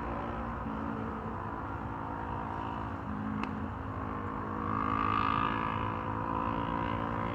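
A steady mechanical hum, like a running engine, that swells slightly about five seconds in.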